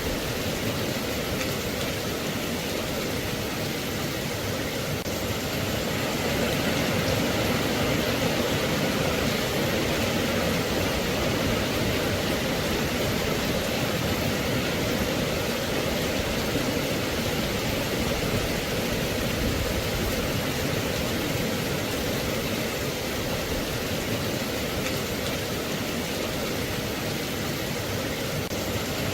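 Steady rain falling, an even hiss with no separate drops standing out; it gets a little louder about seven seconds in.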